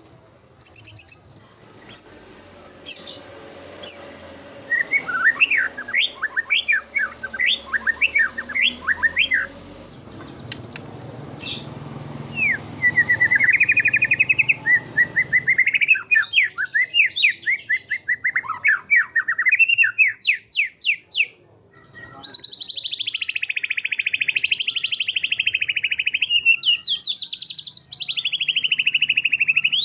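White-rumped shama singing: a few short separate whistled notes, then long runs of rapid trills that rise and fall in pitch, the loudest and most continuous run coming in the last third after a brief pause.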